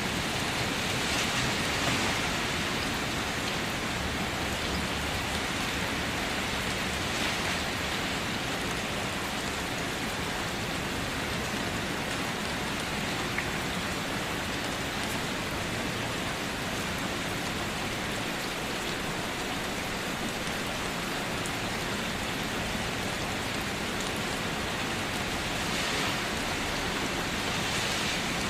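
Steady rain falling on a car, a dense even patter of drops on the body, swelling slightly a few times.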